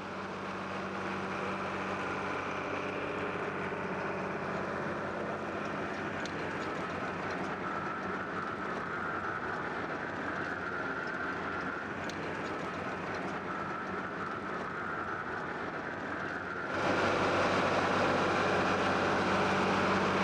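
Tractor and potato harvester running steadily in the field while lifting potatoes, the engine's steady note under a noisy spread of machinery sound. About three-quarters of the way through, the sound jumps louder and noisier.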